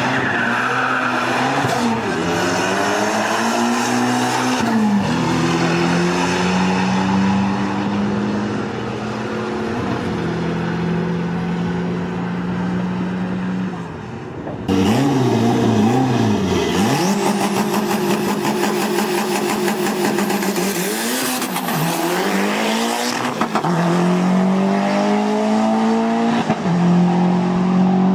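Tuned performance car engine running hard at high revs. It holds a steady high note, then dips and climbs again several times as the revs fall and rise.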